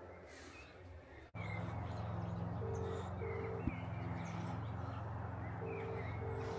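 Outdoor ambience of birds: small birds chirping and a low repeated cooing call, over a steady low hum. The sound steps up abruptly about a second in.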